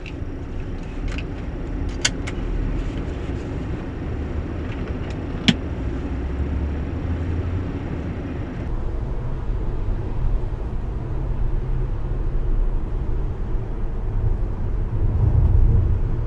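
Road noise inside a moving Tesla Model S: a steady low tyre rumble, which swells a little near the end and is normal tyre-on-road friction noise. A few sharp clicks or knocks sound over it, the loudest about five and a half seconds in.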